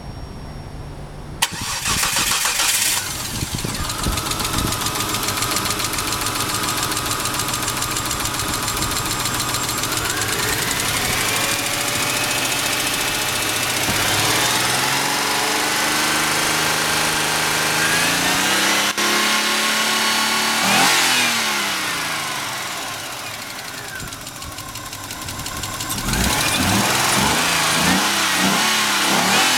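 Kia Carnival 2.5-litre petrol engine starting about a second in, settling to an idle, then revved up and held, dropping back and revved again near the end: a used engine being test-run, which the seller rates as good.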